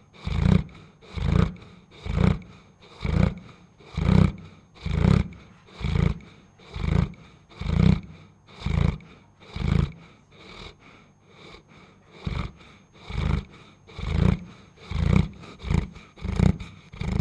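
Dog snoring: a run of deep, rhythmic snores about one a second, weakening briefly about ten seconds in, then coming quicker near the end.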